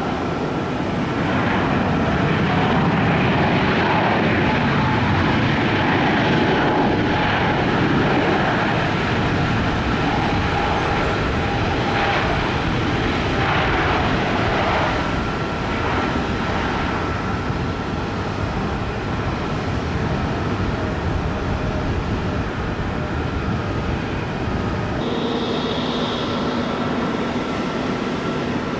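Airliner engine noise, a steady rush with a faint whine in it, louder over the first half and easing off a little after about seventeen seconds.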